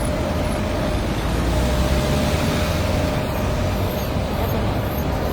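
Steady road traffic: motor vehicles running past with a continuous low rumble and a faint steady whine.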